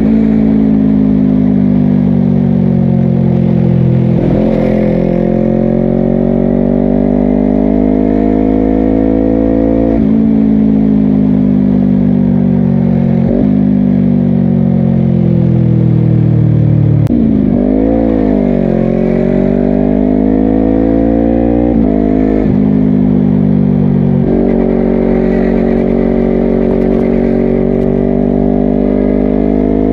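Honda CBR250RR SP's parallel-twin engine running through a Yoshimura exhaust while riding, heard from the rider's position. The engine note slides slowly down in long stretches, broken by about half a dozen sudden jumps in pitch from gear changes, and past the middle the revs dip and then climb again.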